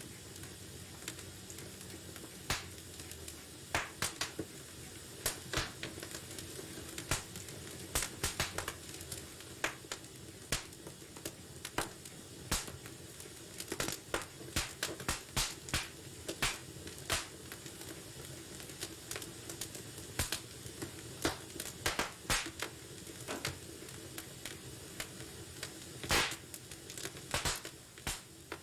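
Wood fire in a fireplace, crackling and popping irregularly over a steady low hiss of burning, with a louder pop near the end.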